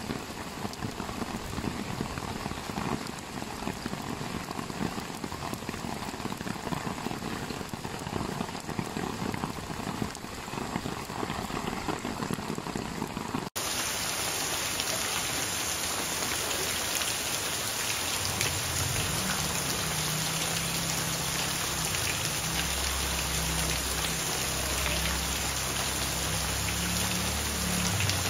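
Steady rain falling, an even hiss. About halfway through it cuts abruptly to another stretch of rain that is a little brighter and louder, with a low rumble underneath in the later part.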